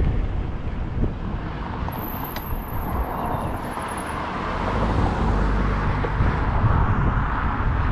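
Wind rumbling on the microphone of a moving bicycle, mixed with road traffic noise that swells in the second half as a vehicle draws near.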